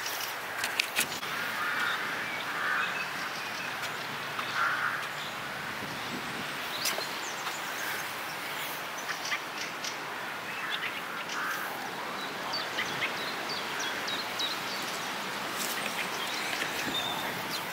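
Birds calling now and then over a steady outdoor hiss, with a few faint sharp clicks.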